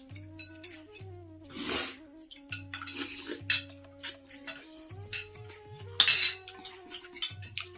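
A spoon clinking and scraping against a bowl during a meal of noodle soup, with short clicks throughout. There are two louder noisy bursts, about two seconds in and about six seconds in. Soft background music plays with held notes.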